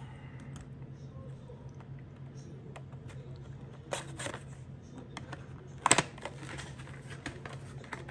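Scattered light clicks and taps of small phone parts and tools being handled on a repair bench, with a sharper click about four seconds in and the loudest one about six seconds in, over a steady low hum.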